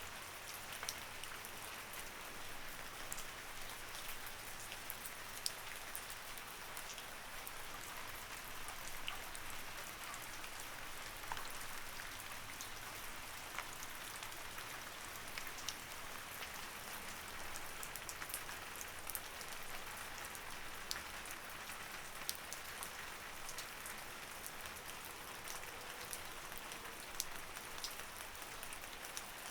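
Light rain falling steadily, an even hiss with scattered individual drops ticking close by.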